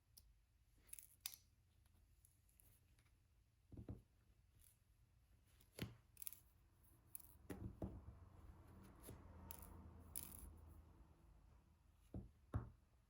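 Faint, scattered small clicks and taps of diamond painting work: a drill pen and resin drills being handled and pressed onto the canvas. A stretch of soft rustling runs through the middle, and the loudest pair of taps comes near the end.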